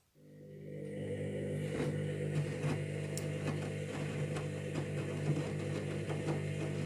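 Candy washing machine's drum motor starting up after a pause and building over about a second to a steady hum as it turns the drum during the pre-wash, with faint irregular ticks throughout.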